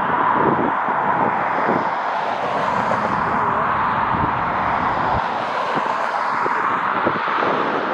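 Jet airliner engine noise, a steady rush, with gusty wind buffeting the microphone.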